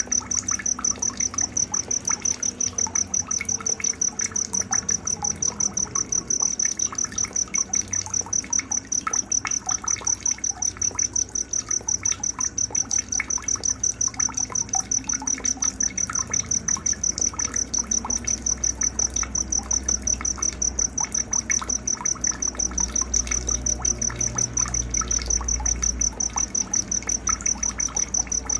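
Night nature soundscape: a cricket trilling in a steady, evenly pulsed high note several times a second throughout, with scattered short bird chirps and a faint trickle of water underneath.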